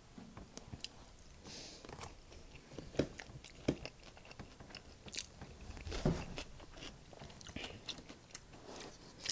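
Close-miked mouth sounds of someone eating: biting and chewing with sharp, crisp crunches, the loudest about three, three and a half and six seconds in.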